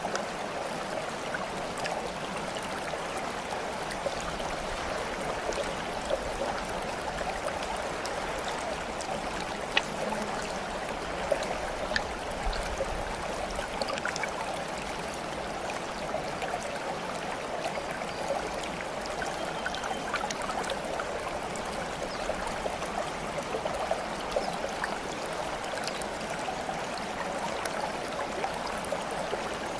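Steady flowing water, like a small stream, with scattered light drips and splashes.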